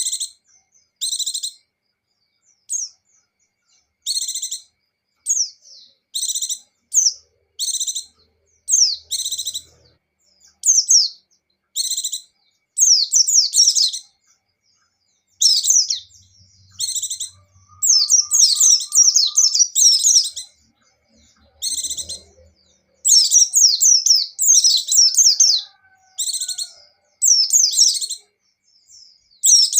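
White-eyes (pleci) singing: short, rapid, high twittering phrases of quick down-sweeping notes, one after another with brief silent gaps between them. From about halfway through the phrases run longer and come closer together.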